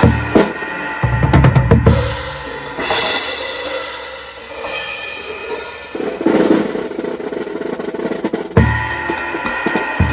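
Drum kit played, its low kicks coming from a 16-inch floor tom converted into a bass drum with a hole cut in its head. The kicks come thick for the first two seconds, cymbals wash over a lighter stretch in the middle, and the full beat with kicks returns near the end.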